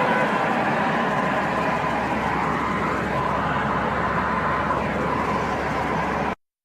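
Steady road and engine noise of a vehicle driving on a highway, cutting off suddenly near the end.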